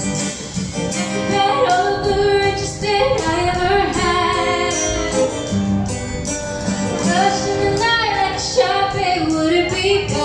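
Live band playing: a woman singing a sustained, wavering melody over guitar, bass and drums.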